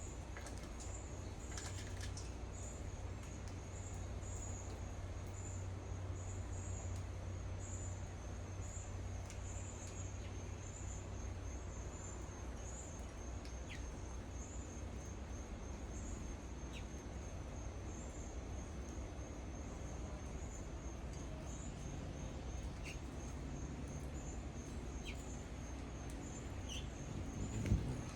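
Insects chirping in a steady, even rhythm of high-pitched pulses over a low background hum, with a few short, sharp bird chips and a brief knock near the end.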